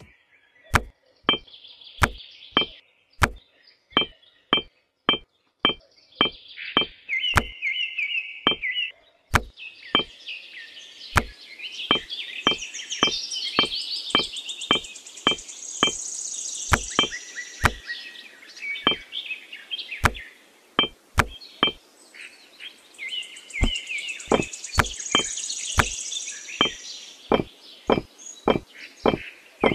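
Miniature clay bricks clicking sharply as they are set down and stacked on one another, one to two clicks a second, over a background of chirping.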